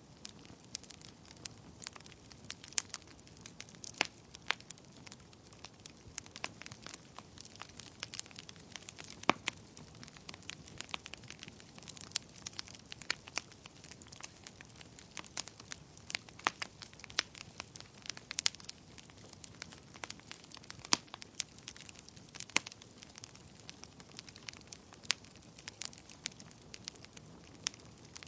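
Fireplace fire crackling: irregular sharp snaps and pops, several a second at busy moments, over a soft steady hiss.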